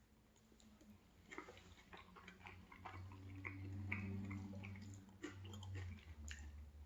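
Quiet close-up chewing of food: soft wet mouth clicks and smacks, with a low hum swelling in the middle.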